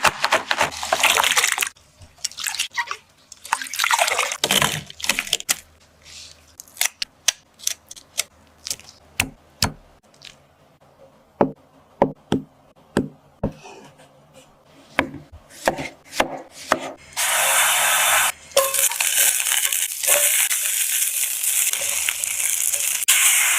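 Kitchen work sounds: two short rushing, splashing noises, then a long series of light clicks and drips, and from about two-thirds of the way in a steady hiss of food sizzling in a hot pan.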